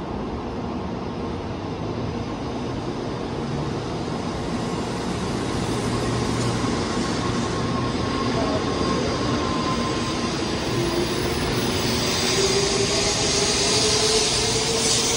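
N700A Shinkansen train pulling out of the platform and picking up speed. The traction motors whine, rising slowly in pitch, over a wheel rumble and rushing air that grow louder as the cars pass.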